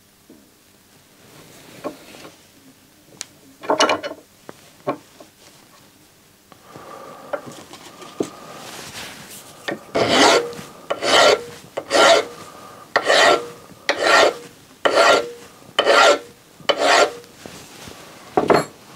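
Hand file rasping in regular back-and-forth strokes, about one stroke a second, after a few slower, scattered scrapes.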